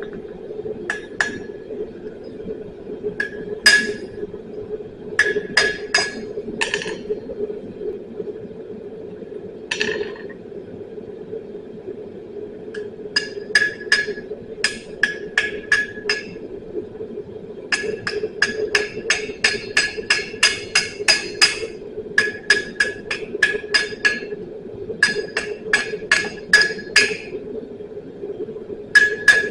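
Hand hammer striking hot quarter-round steel on an anvil, in runs of several quick ringing blows with short pauses between, while bending a chain link. A steady rushing hum from the lit forge runs underneath.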